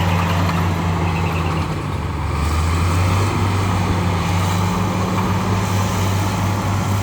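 Heavy diesel engine of earthmoving machinery running steadily with a low, even drone; its note shifts slightly about two and a half seconds in.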